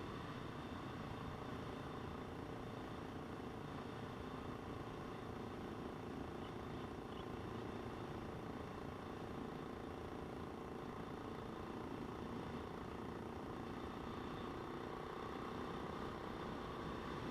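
Motorcycle engine running steadily, a constant hum with no change in pitch or level.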